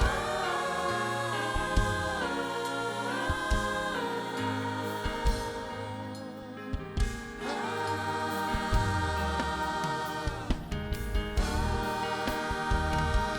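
Church choir singing a slow worship song in held notes, with a band's drums and keyboard under it.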